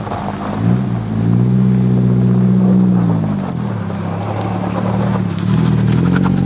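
Nissan 240SX's four-cylinder engine revving through a cheap aftermarket muffler. The revs climb about a second in, hold, drop back around three and a half seconds in, then climb again near the end.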